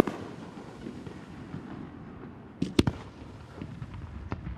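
Aerial firework shells bursting: a sharp bang at the start with an echo that trails off over a couple of seconds, then a quick cluster of about three bangs near three seconds in, and a fainter bang shortly before the end.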